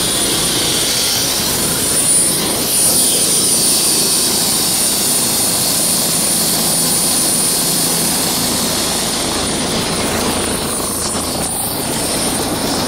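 Helicopter running, a steady loud rush of turbine and rotor with a high turbine whine over it.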